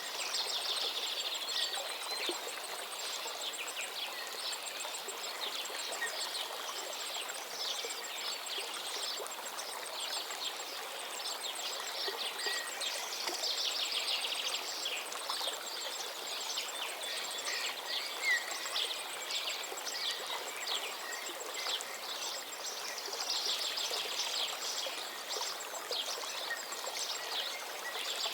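Running water from a stream, a steady even rushing, with many small birds chirping and trilling over it in bursts that swell and fade.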